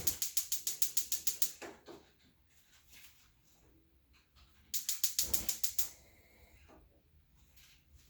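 Gas range burner spark igniter clicking rapidly and evenly, about nine clicks a second. There is a run of about two seconds at the start and a second run of about a second, some five seconds in.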